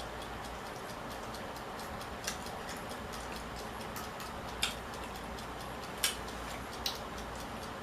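Eating sounds: four sharp, irregularly spaced clicks of utensils against tableware, over a steady hiss with faint quick ticking.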